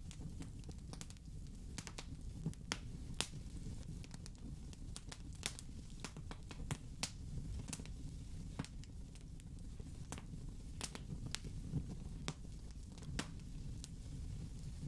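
Wood fire in a fireplace crackling: irregular sharp pops and snaps, several a second at times, over a steady low rumble of the flames.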